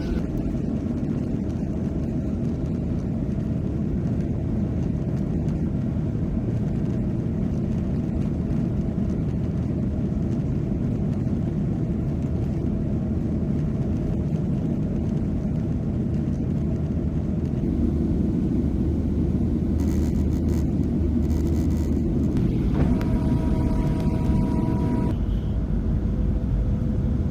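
Steady low rumble of a Southwest Airlines Boeing 737, jet engines and airflow heard from inside the passenger cabin. A couple of higher steady tones come in briefly about three-quarters of the way through.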